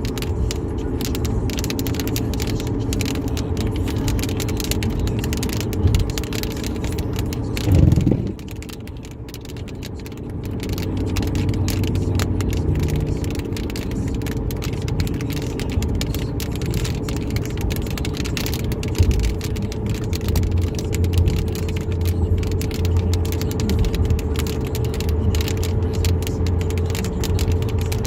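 Cabin noise of a car driving on the highway: a steady drone of engine and tyres with a constant hum and fine rattling ticks. About eight seconds in there is a loud swell, and then it goes quieter for a couple of seconds before the drone returns.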